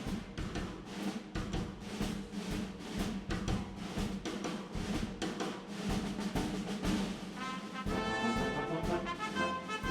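Orchestral music: a fast run of drum and snare hits with timpani under the brass, giving way to held brass chords about eight seconds in.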